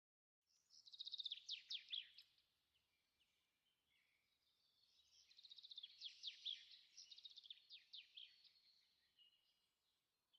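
Small birds chirping in quick, high-pitched twittering runs, with two main bouts a few seconds apart and softer calls between them.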